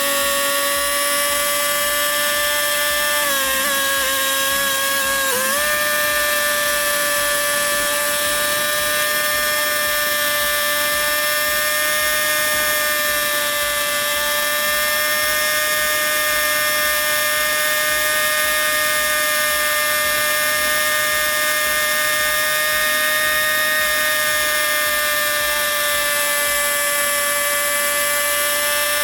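Tractor running steadily with a loud, high mechanical whine, its pitch dipping briefly about three to five seconds in.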